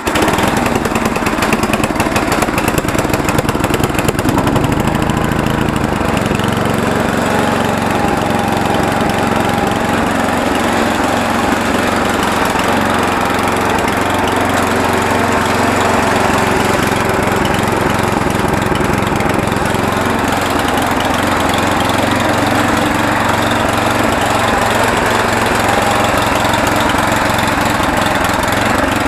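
Small gasoline engine, just started on choke after sitting since last year with its fuel drained, running continuously. It runs unevenly for the first few seconds, then settles into a steady note about five seconds in.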